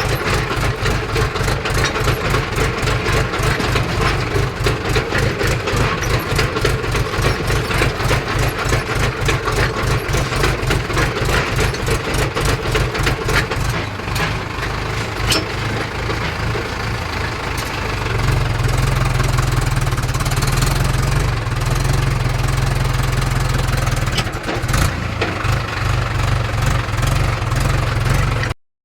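A tractor's diesel engine running with an even, rapid firing beat. About 18 seconds in it grows louder and deeper, as if working harder. It cuts off abruptly just before the end.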